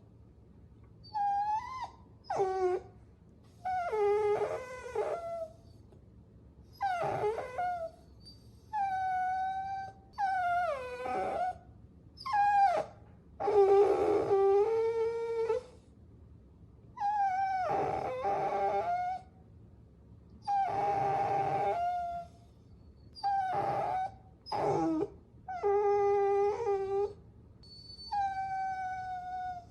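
Puppies whining: a string of about a dozen high-pitched whines and whimpers, each lasting up to two seconds, many sliding down in pitch at the end, with short pauses between cries.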